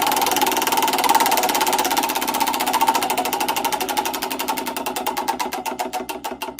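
A fast run of mechanical clicks that steadily slows and fades, ending at about five clicks a second, like something spinning down.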